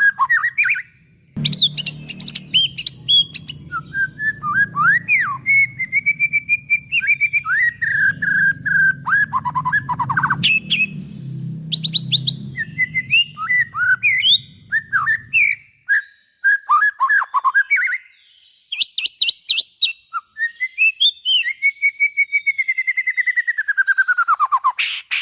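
White-rumped shama (murai batu) singing a long, varied song of loud whistles, notes sliding up and down, and fast rattling trills, broken by a few short pauses. A low hum runs underneath for roughly the first fifteen seconds, then stops.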